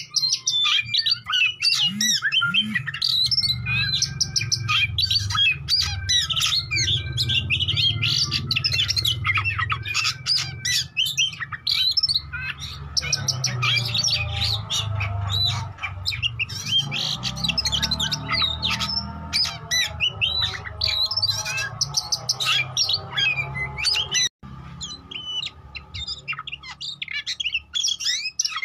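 Oriental magpie-robin (kacer) singing a long, fast, varied song of whistles mixed with harsh chattering notes, over a low rumble. The song breaks off for an instant about three-quarters of the way through.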